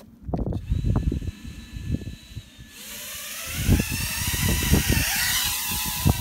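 Small 3-inch quadcopter's brushless motors: a faint steady whine, then about three seconds in they throttle up for takeoff into a loud whine of several pitches that rise and waver before settling. Strong gusty wind buffets the microphone throughout.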